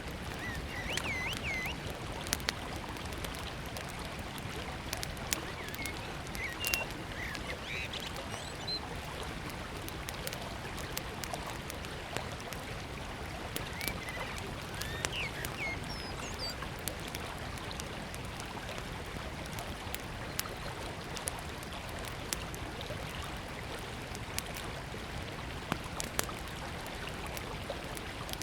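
A small wood campfire crackling, with scattered sharp pops, over the steady rush of a flowing river. Birds chirp briefly in the first part and again about halfway through.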